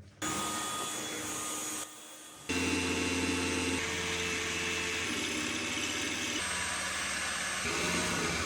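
Old Hilti electric hammer drill running and boring holes into concrete, a steady motor whine. It comes in several short stretches that start and stop abruptly, with a brief quieter break about two seconds in.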